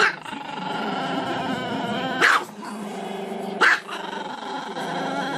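Small black-and-tan dog with its head thrown back, giving three sharp barks, the first right at the start, the next about two seconds later and the last a second and a half after that, with a long, wavering howl held in between.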